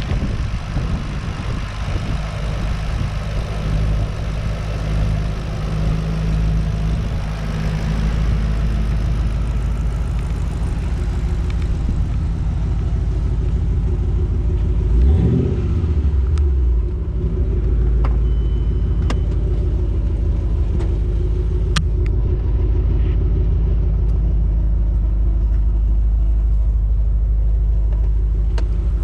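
Twin-turbocharged Ford Mustang V8 idling steadily, with one quick blip of the throttle about halfway through that rises and falls back to idle. A few light clicks follow.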